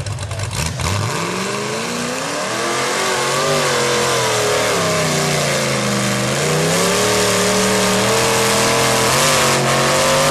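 Mud truck's big engine revving hard through a mud pit, its pitch climbing about a second in and then rising and falling with the throttle, growing louder toward the end.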